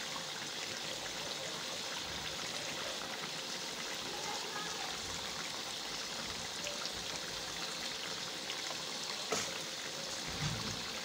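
Steady sizzling and bubbling of chicken cooking in oil and its own juices in an iron karahi, with a short sharp click about nine seconds in.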